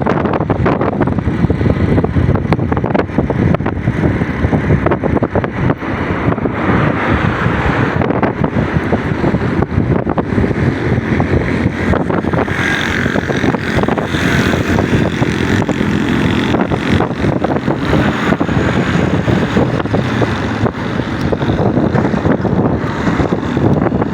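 Loud, steady rushing noise of wind buffeting the microphone over the running noise of a moving vehicle.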